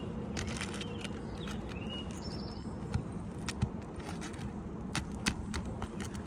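Scattered light clicks and taps of hands and tools working on an asphalt shingle roof, over a steady low outdoor rumble.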